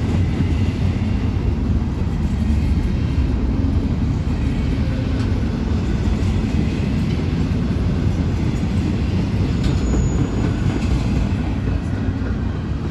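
Freight train cars rolling past: a steady, loud rumble of steel wheels on the rails, easing slightly near the end.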